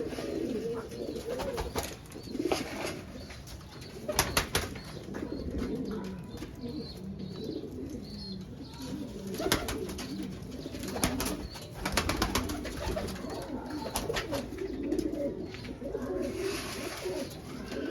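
Several domestic fancy pigeons cooing continuously in low, warbling calls, with sharp clicks now and then.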